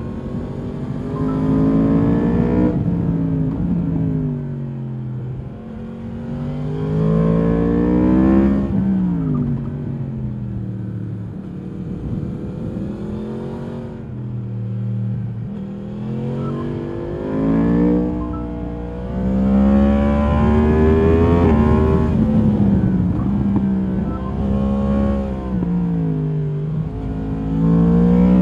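2022 Yamaha MT-10's crossplane inline-four engine through its stock exhaust, ridden on the road. The engine note rises under acceleration and drops back again, several times over.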